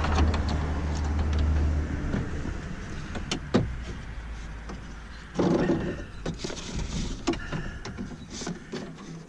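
Clicks and rattles of metal parts inside a truck door as a replacement outside door handle is worked into place, with one sharp click about three and a half seconds in and a brief rattle near the middle. A low steady hum underneath fades away over the first few seconds.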